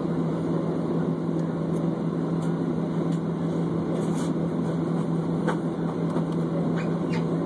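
Steady cabin drone of a jet airliner on the ground before takeoff: engine and air-system noise with a constant low hum, and a few faint clicks.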